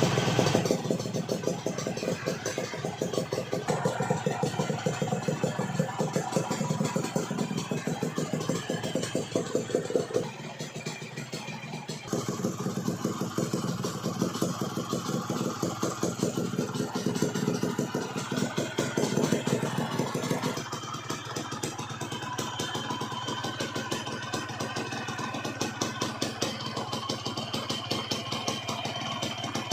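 Motorcycle engine idling through a gutted 'bobokan' open exhaust, a rapid, even popping beat. It dips briefly in the middle, and the tone changes about twenty seconds in, with a steadier low note.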